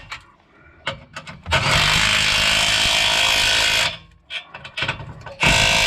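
Cordless power tool running in two bursts, the second shorter, with a few light clicks between, spinning a nut onto a threaded-rod exhaust hanger.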